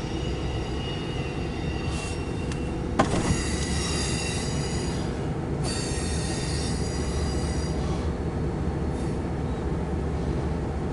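A loaded autorack freight train rolling past with a steady low rumble. High-pitched wheel squeal rises and fades, strongest from about three to five and a half seconds in. There is one sharp clank about three seconds in.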